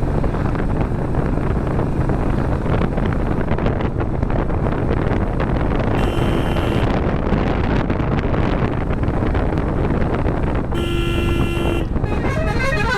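Steady rush of wind and road noise from a motorcycle ride, with a vehicle horn sounding twice: a short toot about six seconds in and a longer one of about a second near eleven seconds.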